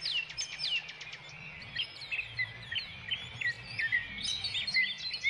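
Small birds chirping: a busy string of short, quick falling notes, with a few faint ticks near the start.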